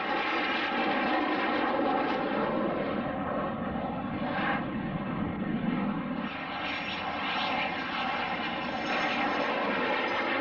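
A fixed-wing airplane's engines running steadily, a continuous drone with several held tones over a noisy rush.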